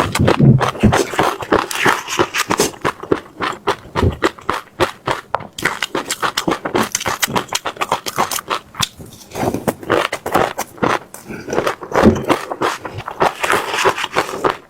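Close-miked chewing: teeth crunching seeds in rapid, irregular crackles with no pauses.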